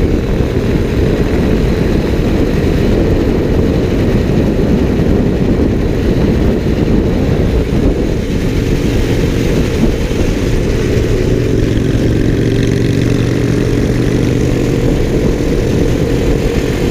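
Motorcycle running at road speed, buried in heavy wind rumble on the microphone; a steady engine note comes through more clearly from about ten seconds in.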